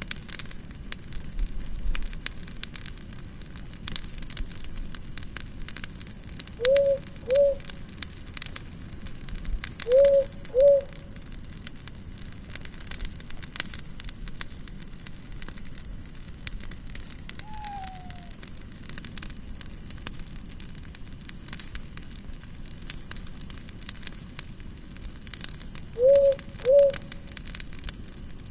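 Campfire crackling throughout. A short series of about five quick high chirps comes twice, near the start and near the end. A lower two-note call sounds three times.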